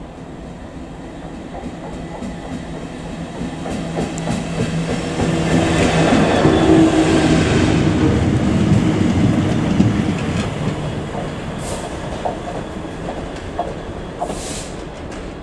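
A train passing on the line. The rumble of its wheels on the rails, with a steady hum, builds up, peaks about halfway through, then fades as it moves away.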